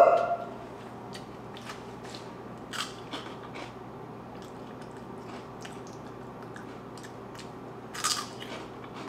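A person crunching and chewing Clancy's Hot Onion Rings, ring-shaped snack chips, in a run of small crisp crackles with louder bites about three seconds in and near the end. A short rising 'mm' opens it.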